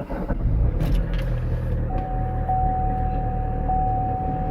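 Chevrolet Cruze diesel engine on a cold start in deep frost, catching and running steadily right after the glow plugs have cycled. A steady high chime tone sounds alongside from about two seconds in, breaking off briefly every second or so.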